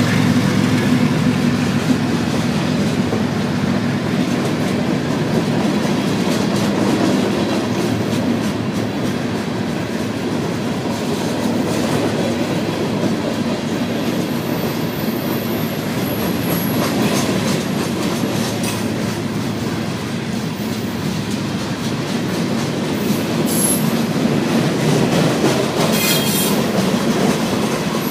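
CSX freight train passing close by: a diesel locomotive's engine hum fades in the first couple of seconds, then a long string of insulated boxcars rolls past with a steady rumble and clatter of wheels on the rails and a few faint high wheel squeals.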